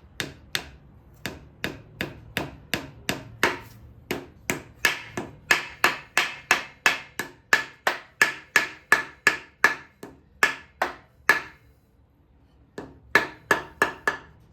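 Hammer tapping in a steady rhythm, about three blows a second, each with a short metallic ring, driving a crankshaft seal into an air-cooled VW engine case. The blows stop for about a second near the end, then resume.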